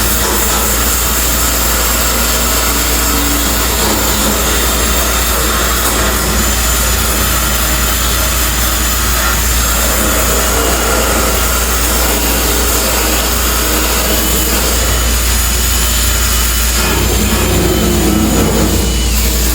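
Electric drill with a wire brush spinning steadily, stripping a single layer of factory paint off a truck door's routed recess.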